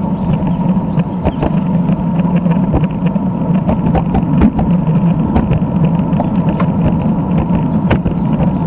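Steady low rumble of a vehicle moving along a road, with scattered light clicks and a faint steady whine.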